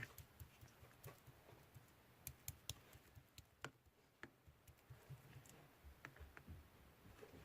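Faint, irregular light clicks and taps, a few a second, over low background rumble.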